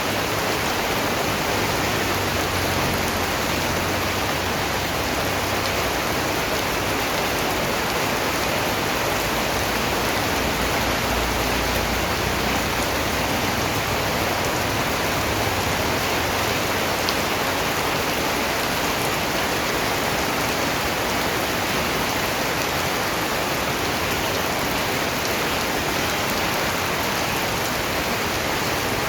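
Steady rain falling, an even, unbroken hiss of many raindrops with no change in strength.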